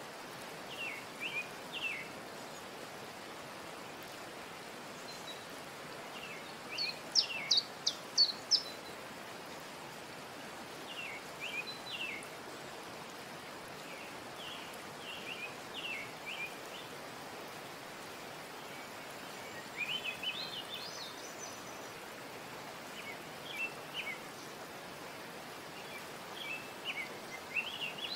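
Birdsong: short phrases of quick, high chirps that come every few seconds, the loudest burst about seven seconds in, over a steady background hiss.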